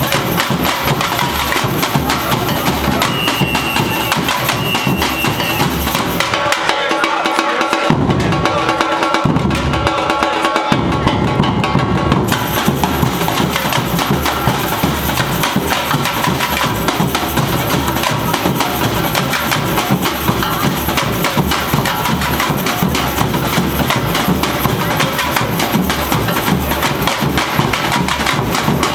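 Samba bateria, a Brazilian drum ensemble led by surdo bass drums, playing a dense, steady rhythm. About six seconds in, the bass drums drop out for a break, with a few heavy accents, before the full ensemble comes back in around eleven to twelve seconds.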